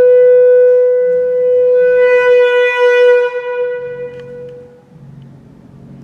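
Bass clarinet holding one long high note that grows brighter in the middle, then fades out about five seconds in.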